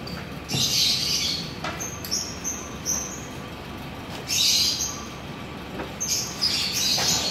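Small bird chirping: short high chirps in little groups of two or three, broken by a few louder, noisier calls about half a second long.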